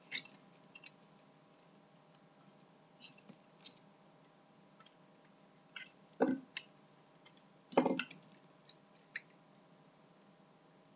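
Plastic parts of a B-daman marble-shooter toy being handled and unclipped: light, scattered clicks, with two louder clatters about six and eight seconds in.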